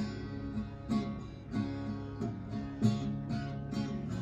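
Acoustic guitar strummed in a steady rhythm: an instrumental passage of a song, without singing.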